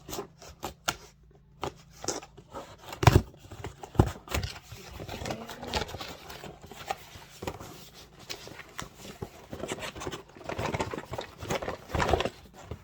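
Packaging of a boxed floodlight being handled and pulled open: rustling and scraping with a string of clicks and knocks, the loudest about three and four seconds in and again near the end.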